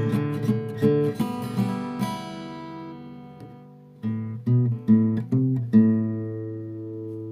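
Acoustic guitar music: strummed chords die away, then a few single plucked notes and a final chord left ringing, the close of a song.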